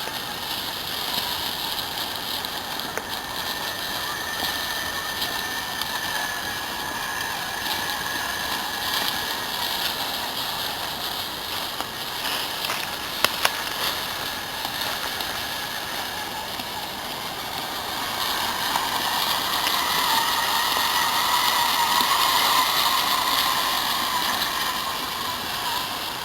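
Self-built RC trial truck's motor and gearbox whining as it drives, the pitch wandering with speed and loudest from about 19 to 25 seconds in. Two sharp clicks about halfway through.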